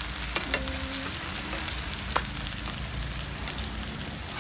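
Tofu frying with lemongrass in hot oil in a pan, a steady sizzle, with a few sharp clicks of metal tongs against the pan.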